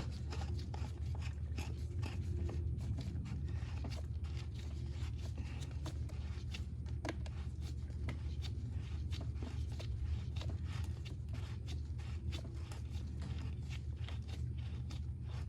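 Plastic oil filter housing cap being threaded clockwise into its engine housing by hand, giving many small scrapes and clicks over a steady low hum.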